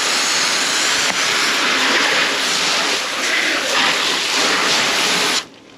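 A hard, steady spray of water, such as a hose nozzle rinsing the fish, cutting off abruptly near the end.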